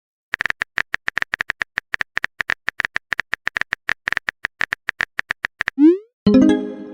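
Phone on-screen keyboard tap sounds: rapid, irregular clicks as a text message is typed. Near the end comes a quick rising whoosh as the message is sent, then a short pitched chime that fades out.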